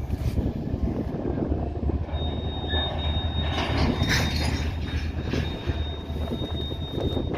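Freight train cars rolling with a low rumble, their steel wheels squealing in a thin, steady, high tone that sets in about two seconds in.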